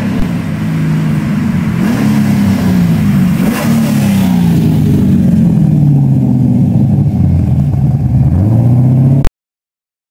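LS-swapped BMW E46 with a 6.0-litre GM LS V8, revving up and down several times while driving off, the engine note rising and falling. The sound cuts off abruptly near the end.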